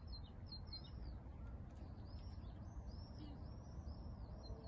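A small bird singing a series of short, high arched chirps, a few near the start and then about two a second from about two seconds in, over a steady low rumble.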